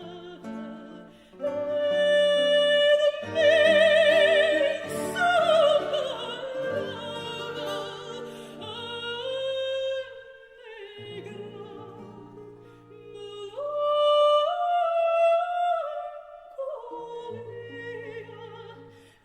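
A classically trained singer sings a Portuguese modinha with vibrato over an instrumental accompaniment, in phrases with a short pause about midway.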